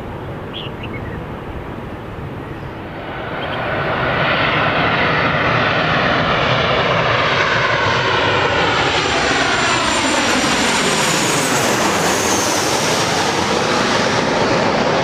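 Large jet airliner on landing approach passing low overhead: the engine noise swells about three seconds in and stays loud, with a sweeping, phasing sound and a high whine that falls in pitch as it passes.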